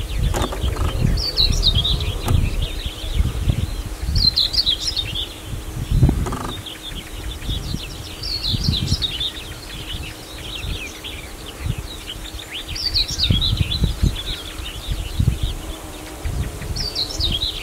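A songbird sings short warbling phrases, one about every three to four seconds, over a gusty low rumble. There is a single thump about six seconds in.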